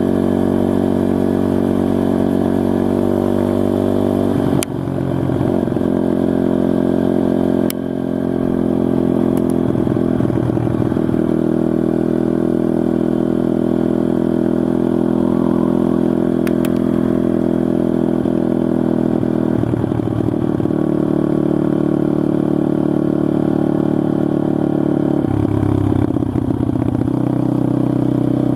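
SSR TR160 motorcycle engine running while being ridden, its note steady with a few shifts in pitch. Two sharp clicks, about five and eight seconds in, each come with a brief drop in the engine note.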